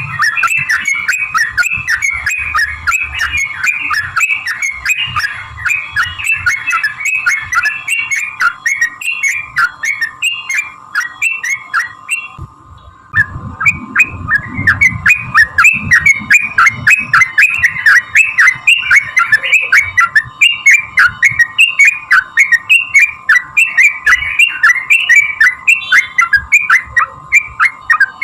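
Yellow-vented bulbul singing a long, fast run of short chattering notes, several a second. The run breaks off briefly about halfway through, then picks up again. A faint steady tone sits underneath.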